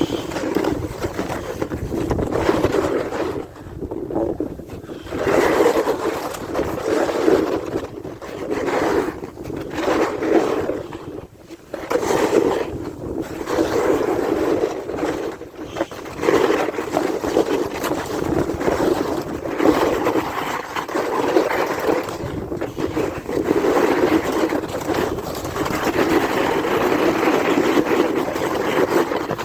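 Edges sliding and scraping over snow during a descent, with wind on the microphone; the noise swells and drops again and again with the turns.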